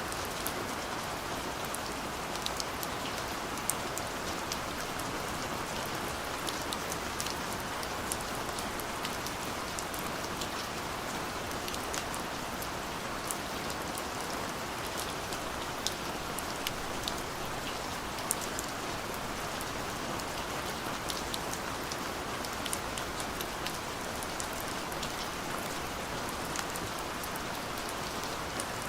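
Steady light rain falling, a continuous hiss with many small, scattered drop ticks.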